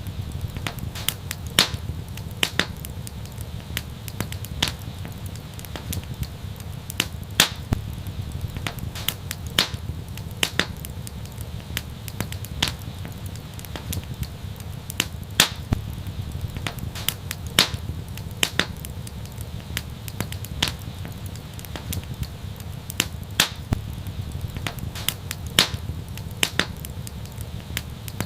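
Wood fire crackling: irregular sharp pops and snaps, one to a few a second, over a steady low rumble.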